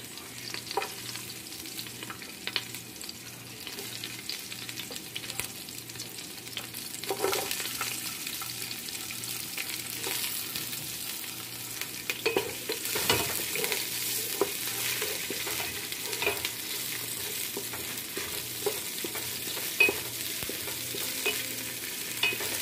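Chopped garlic and onion sizzling in hot oil in a nonstick pot while a wooden spatula stirs and scrapes them, with scattered light clicks and knocks. The sizzle grows louder partway through as the chopped onion goes in.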